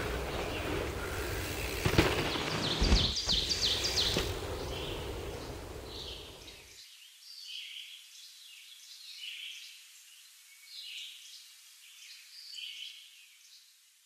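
Small birds chirping in short repeated phrases over outdoor rumble with a few knocks. About halfway through the rumble cuts off abruptly, leaving only the birdsong, which fades near the end.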